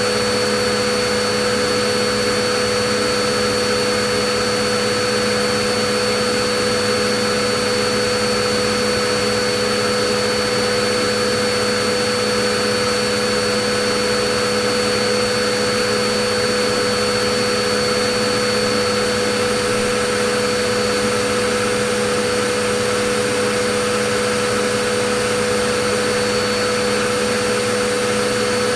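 Vacuum cleaner running steadily: a constant motor whine over a dense rushing of air, unchanging throughout.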